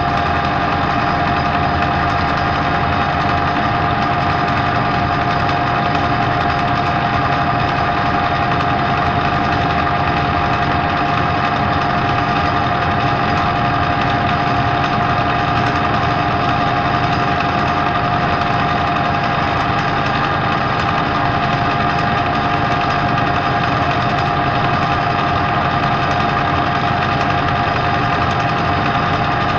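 Metal lathe running steadily at speed, a constant whine from its motor and drive.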